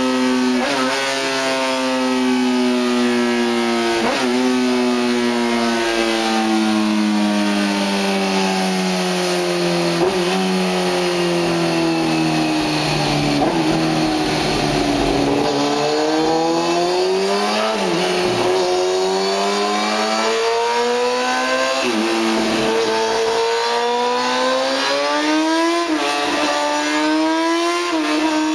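Kawasaki ZX-10R World Superbike's inline-four engine running hard on a dyno. Its pitch winds down through the gears over the first half, then climbs back up through the gears, with a short break in the note at each gear change every few seconds.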